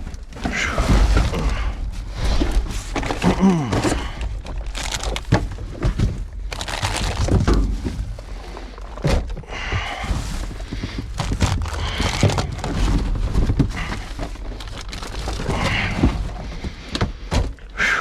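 Rummaging in a dumpster: bags and boxes rustling and scraping, and items knocking and clunking together in a steady run of irregular thuds.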